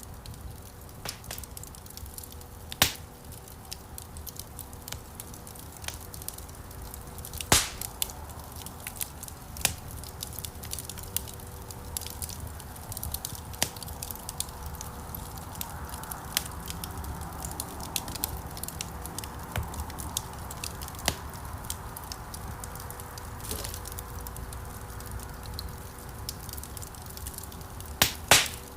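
Wood fire burning in a stone fireplace: a steady low rumble of flames with frequent small crackles and a few loud pops, the loudest a pair of sharp snaps near the end.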